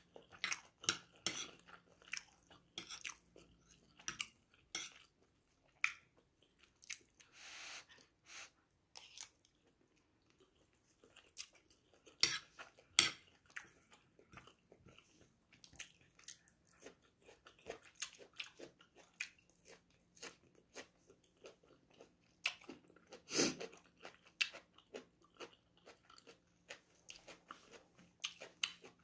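A person chewing coconut rice close to the microphone: wet mouth sounds and many small, irregular clicks, with a louder one about four-fifths of the way through.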